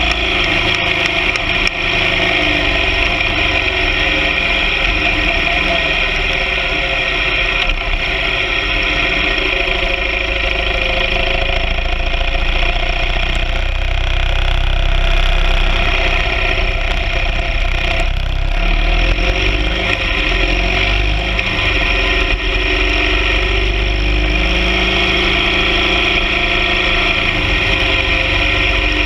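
BMW R 1200 GS Adventure sidecar rig's boxer-twin engine running steadily on the move, with a haze of wind and road noise over it.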